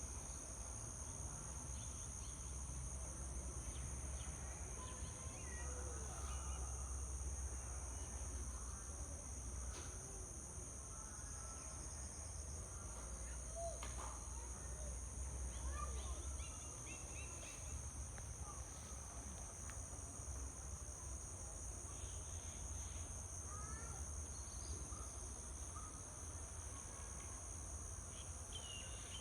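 Outdoor nature ambience: a steady, high-pitched insect chorus with no break, with scattered short bird chirps over it and a low rumble of wind underneath.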